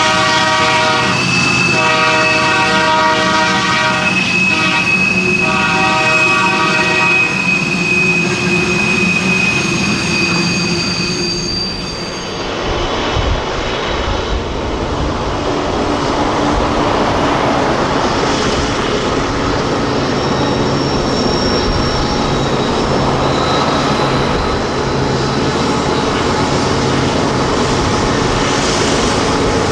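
Freight train diesel locomotive's multi-chime air horn sounding several long blasts over the first seven seconds or so, with a thin high wheel squeal lingering after it. From about twelve seconds in, the locomotives and freight cars roll past with a steady loud rumble of engines and wheels.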